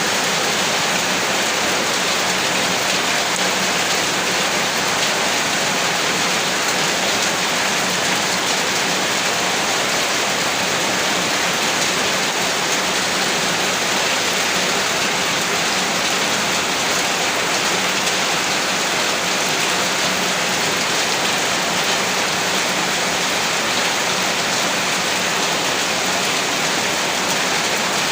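Heavy rain falling steadily, a dense even hiss of drops on surfaces with no pauses or single loud events.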